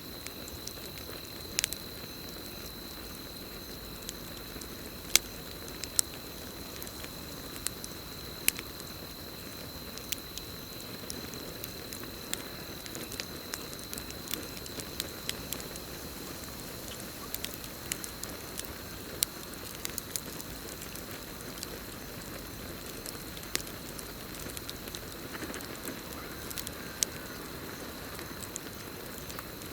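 Campfire burning, with irregular sharp pops and crackles over a low steady rush of flame, and a continuous high cricket trill.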